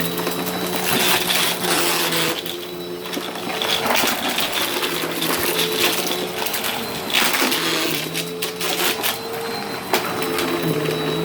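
Vacuum cleaner running, its motor hum shifting slightly in pitch, with dense crackling and rattling as it sucks up crunchy debris.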